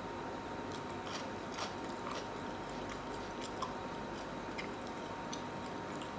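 A person chewing a mouthful of food up close, with small scattered wet mouth clicks over a steady background hiss.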